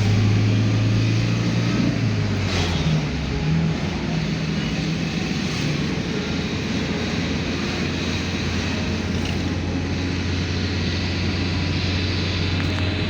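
A vehicle driving on a road: steady engine hum under continuous road noise, the engine note shifting about two to three seconds in.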